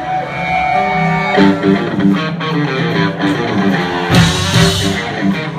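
A rock band playing live: a guitar starts alone, and the rest of the band with drums comes in about a second and a half in. A cymbal crash comes about four seconds in.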